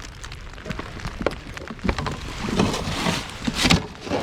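Rain pattering on the kayak and water, with many scattered sharp clicks and knocks that grow busier and louder about halfway through.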